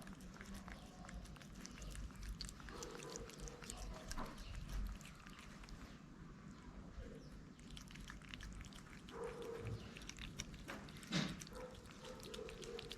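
Faint clicking and crunching of street cats chewing food, with a few short low sounds from the animals now and then.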